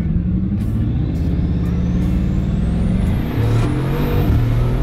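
Bugatti Chiron's quad-turbo W16 engine accelerating, heard from inside the cabin. The engine pitch climbs, then drops about three seconds in as it shifts up and pulls again, with a faint rising high whine above it.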